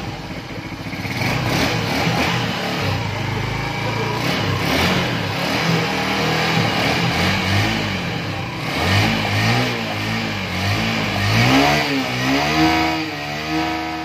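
Honda CB150F single-cylinder four-stroke motorcycle engine running on a test run after its head and cylinder have been refitted. It runs steadily at first, then in the second half the throttle is blipped several times, so the pitch rises and falls.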